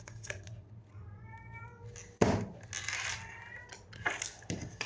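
A cat meowing once, briefly, about a second in. A sudden loud knock follows just after two seconds, then more pitched sound.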